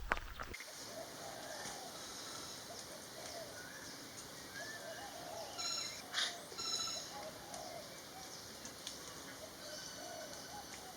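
Faint outdoor ambience with birds calling: many short, curved chirps repeating through, and a brief burst of higher, sharper notes about six seconds in.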